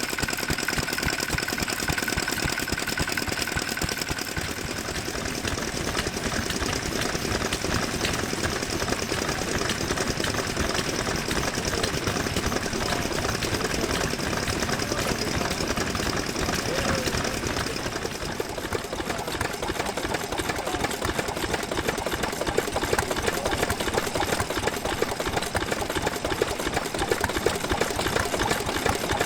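Vintage stationary engine (hatsudoki) running with a rapid, even knocking beat; the sound changes about two-thirds of the way through.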